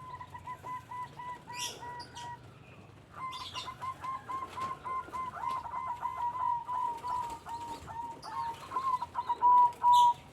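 Puter dove calling in a fast run of short, evenly pitched notes, pausing about two seconds in and then carrying on. Near the end come a few sharp, loud flaps of its wings.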